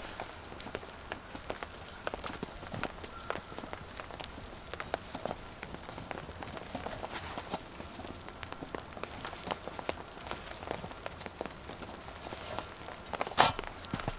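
Rain falling on surfaces, a steady patter of many small drop ticks. A louder brief noise comes near the end.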